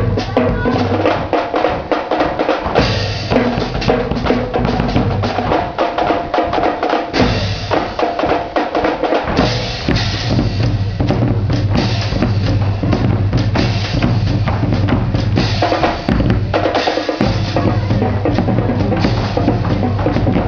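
Drum band playing a steady rhythm on snare drums and bass drums, the bass drums dropping out briefly a few times.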